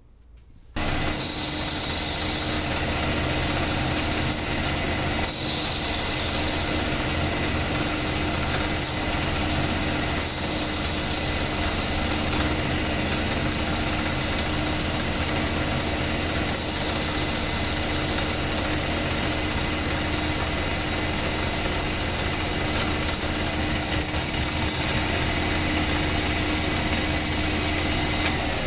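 An electric power tool switched on about a second in and running steadily with a low hum, with a high hissing abrasive sound that comes and goes, as of wood being sanded or rasped. A quick run of clicks sounds about two-thirds of the way through, and the motor winds down at the end.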